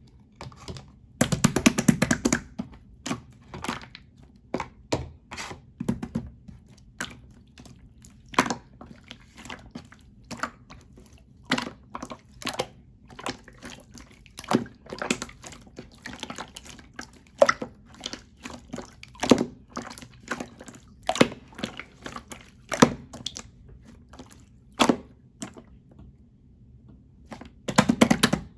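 Clear slime being squished and poked by hand, making irregular wet clicks and pops, with a denser crackling run about a second in and again near the end.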